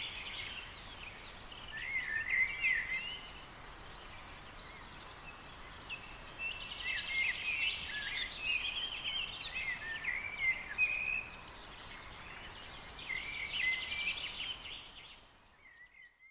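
Songbirds singing in quick warbling, chirping phrases that come in several clusters, over a faint steady hiss; everything fades out near the end.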